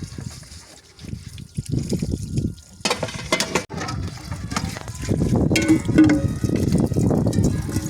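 Water pouring and splashing as dishes are washed by hand, with sharp clinks of dishware early on and the water growing louder and steadier about halfway through.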